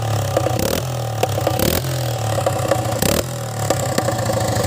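Old motorcycle with a loud modified exhaust running, a steady low engine note broken by several sharp cracks.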